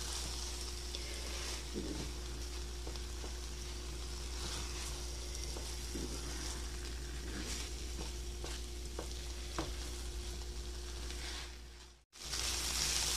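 Raw rice and vegetables sizzling in oil in a hot non-stick wok, stirred with a spatula that makes light scraping strokes. The rice is being fried with the vegetables before water is added. The sound cuts out for a moment about twelve seconds in, then returns a little louder.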